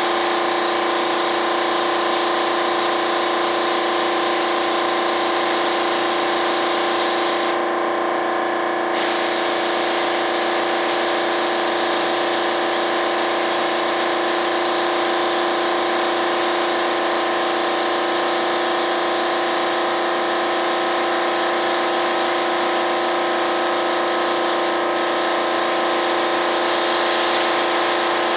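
Air spray gun hissing as it sprays epoxy primer, over the steady running of an air compressor. About eight seconds in, the spray hiss stops for a second or so while the compressor keeps running, then starts again.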